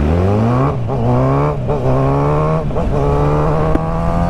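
Kawasaki Z900 inline-four engine accelerating hard from low revs. Its pitch climbs and drops at three quick upshifts about a second apart, then pulls on with a slowly rising pitch in a higher gear.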